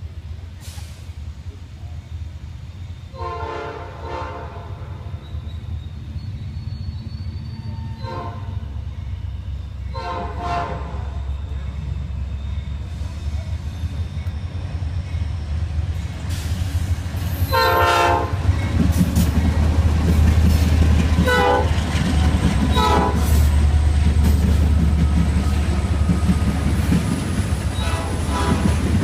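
Norfolk Southern diesel locomotives sounding their air horn in a series of blasts as they approach. The heavy engine rumble and train noise build up to a loud pass in the second half.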